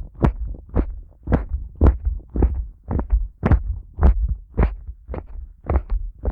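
Fingers squeezing and pressing the ears of a Neumann KU100 dummy-head microphone in a steady rhythm, about two presses a second, each a low thump with a brushing rustle on top.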